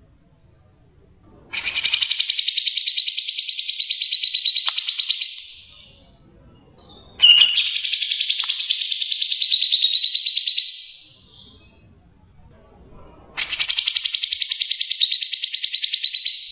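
A caged songbird giving a long, rapid buzzing trill three times, each lasting about four to five seconds with short pauses between, the last running on past the end.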